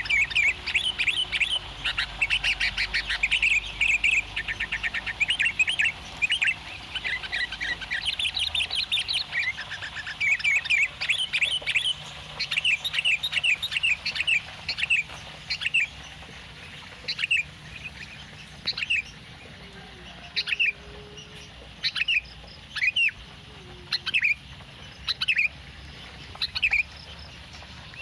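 Sooty-headed bulbul (kutilang) chirping: a rapid run of chirps and quick trills in the first half, thinning to single short, sharp calls about once a second.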